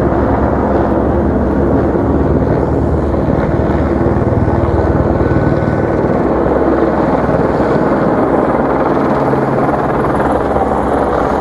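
Helicopter flying low overhead: a loud, steady drone of rotor and engine with low humming tones.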